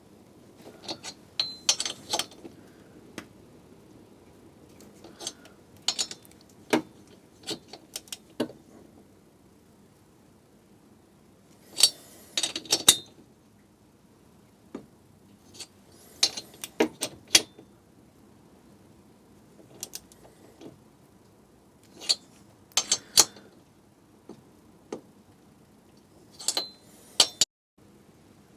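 Ratcheting torque wrench clicking in short bursts, about eight times, as the cylinder head nuts are tightened to 7 foot-pounds.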